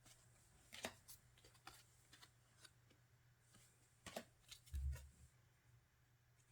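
Faint handling of album inclusions: light taps and rustles of photocards and paper, scattered a few times, with a soft low thump about five seconds in.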